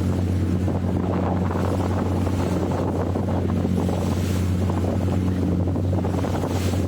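A boat's engine running steadily with a low, even drone, with wind buffeting the microphone.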